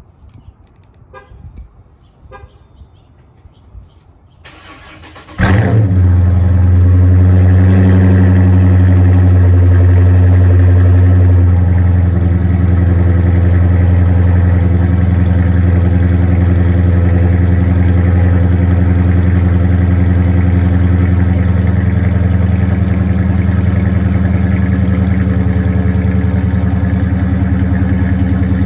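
A 2014 Dodge Charger R/T's 5.7 L Hemi V8 starts about five seconds in, after a few faint clicks, then idles steadily through Carven R mufflers with a resonator delete. The idle is at its strongest for the first several seconds after start-up, then settles slightly.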